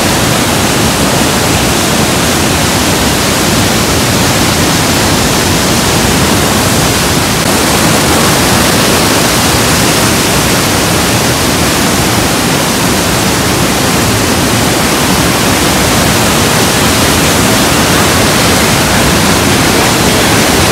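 The Rhine Falls thundering close by: a loud, steady roar of falling water that fills every pitch without a break.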